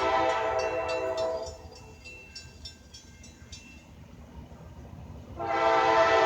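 Diesel locomotive air horn sounding two long blasts of a steady multi-note chord, one ending about a second and a half in and the next starting near the end, with a quieter gap between.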